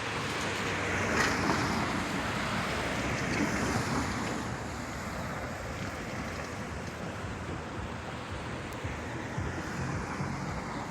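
Road traffic passing: a rushing noise that swells about a second in and then slowly fades.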